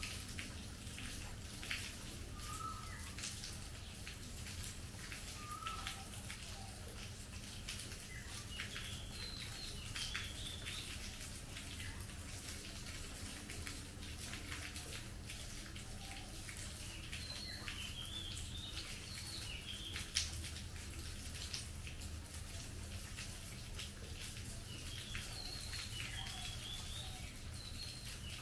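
Steady rain falling on trees and foliage, an even hiss with many small drips and taps, one sharper tap about twenty seconds in. Birds chirp in short groups of high notes now and then through it.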